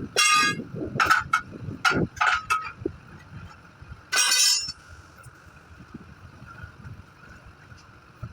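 Metal striking metal as tools work a tubeless truck tyre off its wheel rim: a quick run of clanks in the first three seconds, then a longer ringing strike about four seconds in.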